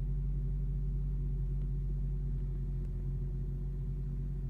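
Steady low hum of the BMW 440i's turbocharged 3.0-litre inline-six running, heard from inside the cabin.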